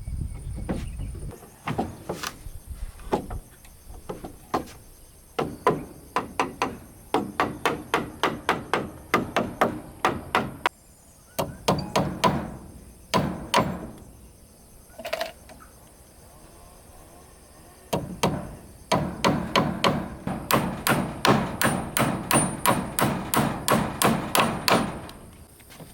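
Hammer striking wood in quick runs of blows, about three a second, with short pauses between runs; the longest run comes near the end.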